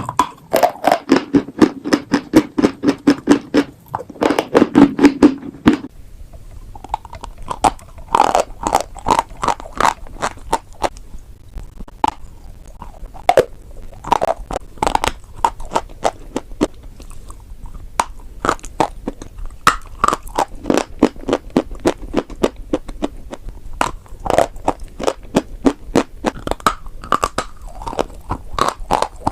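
Close-up crunching of chalk and clay: a dense run of quick crisp crunches for about six seconds, then slower, separate snaps and crumbling crunches in irregular clusters.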